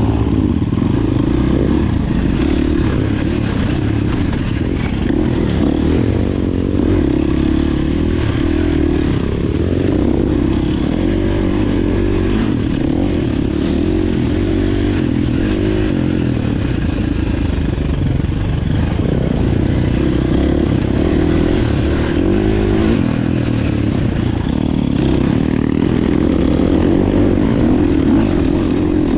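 Dirt bike engine running while riding, its note rising and falling with the throttle, over a steady low rumble.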